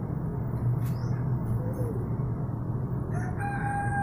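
Steady low hum with a kampung chicken calling. About three seconds in it gives a long call held on one pitch.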